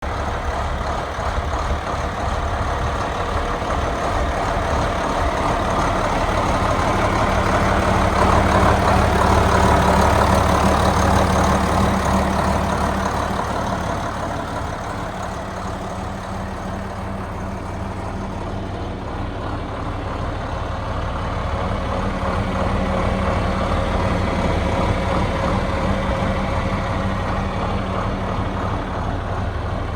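John Deere 4440's turbocharged six-cylinder diesel engine idling steadily. It is loudest about ten seconds in and a little softer around sixteen seconds.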